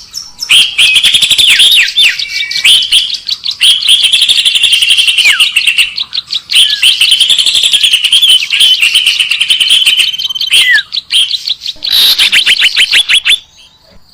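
Loud, dense birdsong from a bird-lure recording: rapid chirping and trilling with a few short whistles that slide downward, dropping away about thirteen seconds in.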